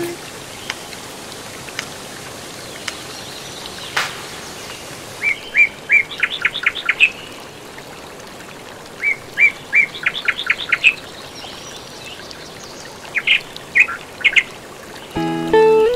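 A songbird singing three similar phrases about four seconds apart, each a few clear notes followed by a quick run of notes, over a steady background hiss. Guitar music comes in about a second before the end.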